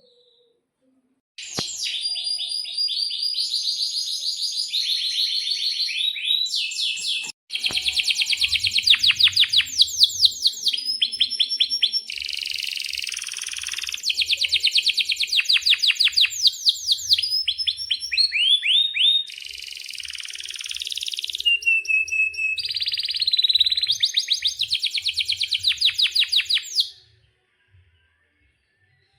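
Domestic canary singing in full voice: a long, unbroken song of fast trills and rolls, one rapid repeated-note phrase after another, starting about a second and a half in and stopping shortly before the end.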